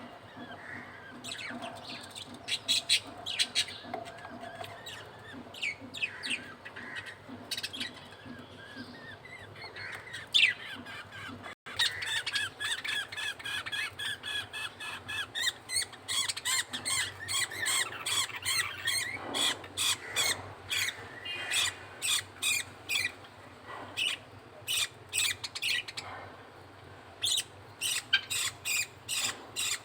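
Budgerigars at a feeding: a chick's short, high, squeaky begging cheeps as the male budgie feeds it. The cheeps come sparsely at first, then in quick runs of about three a second through the second half.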